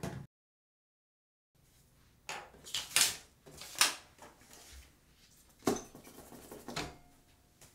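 After a second of dead silence, small hard objects clatter and knock against a bathroom counter and cabinet as they are picked up and set down. There are five or so sharp knocks, the loudest around three to four seconds in.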